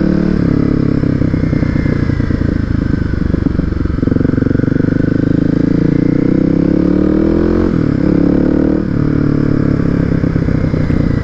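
Kawasaki motorcycle engine running steadily under way, its note rising and falling gently with a brief change about eight seconds in.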